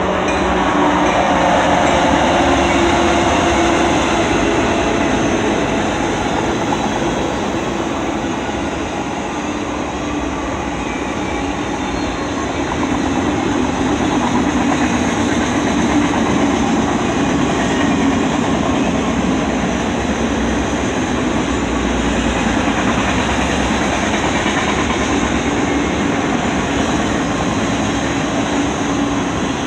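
Diesel-hauled intermodal freight train rolling past, led by an EMD SD60, a GE C44-9W and a GE ES44DC: a steady, loud mix of locomotive engine drone and wheel noise on the rails.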